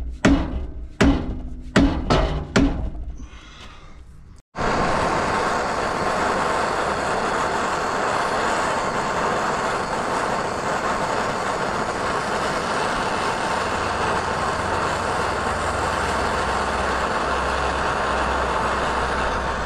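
A run of about eight sharp hammer blows on the stuck steering linkage. Then, after an abrupt cut, a loud, steady rushing noise with no rhythm.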